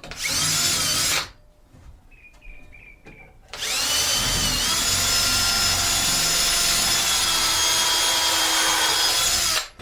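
Cordless drill running in a short burst of about a second, then after a pause a steady run of about six seconds that dips briefly in pitch soon after starting, as it drives screws into wood. A bird chirps faintly in the pause.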